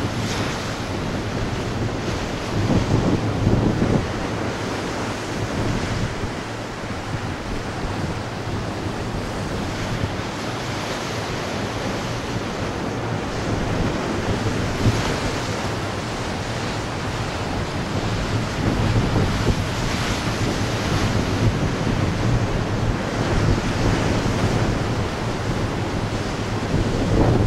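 Heavy ocean surf: waves breaking and washing in one after another, with wind buffeting the microphone in low rumbles.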